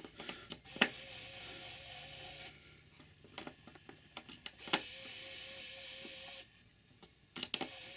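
Model railway semaphore signal being worked from a switch: a click, then its small drive mechanism humming for under two seconds as it moves, repeated about four seconds later, with more clicks and the hum starting again near the end.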